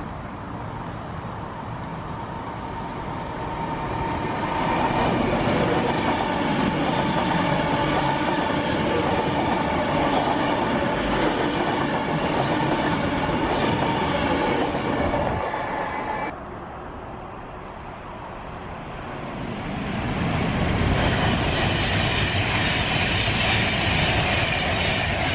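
Train passing through a station, its noise building over a few seconds to a loud steady run with a whine in it. It cuts off suddenly about two-thirds of the way in, then train noise swells up loud again.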